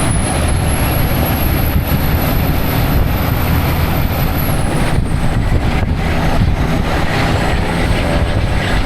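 Semi truck running with a steady, loud engine drone and a thin high whine that slides down in pitch about five seconds in.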